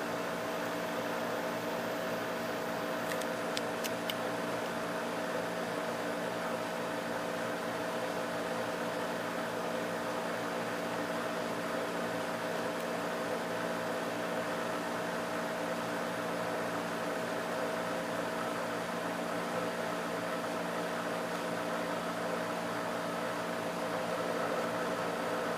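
Springer 12,000 BTU air conditioner running: a steady hum with a held mid-pitched tone over an even airy rush, and a few faint ticks about three seconds in.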